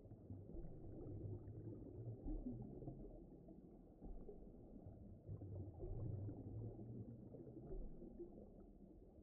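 Faint, low, muffled rumbling ambience with no higher sounds, swelling and easing slowly every few seconds, typical of an underwater soundscape bed.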